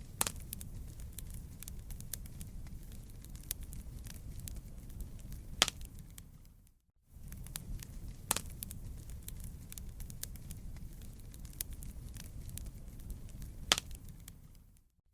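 Campfire of burning wood crackling: a steady low rumble with many small snaps and a few sharp, louder pops, the loudest just before the middle. The sound cuts out for a moment about seven seconds in, then resumes.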